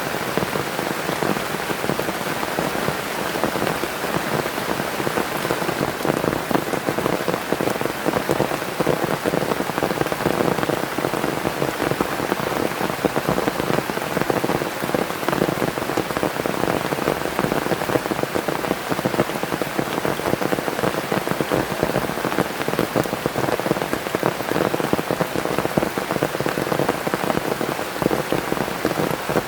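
Heavy rain falling, a steady dense patter of drops hitting a surface.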